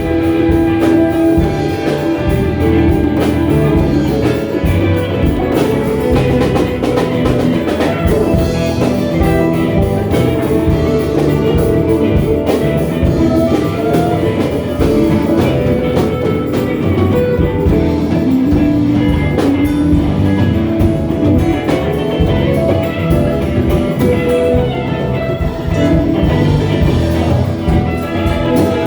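Rock band playing live, with guitars and a drum kit.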